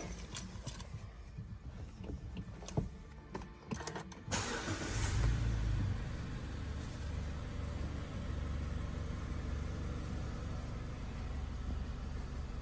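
A few light clicks, then about four seconds in the Mazda 3's engine starts, flares briefly and settles into a steady idle.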